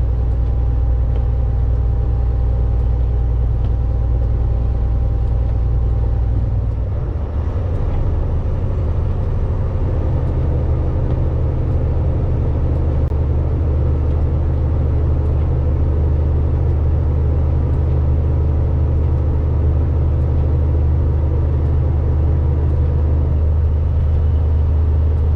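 Volvo VNL 860 semi truck's engine and drivetrain running steadily, heard from inside the cab while driving. The engine note shifts about seven seconds in, with a brief dip in level.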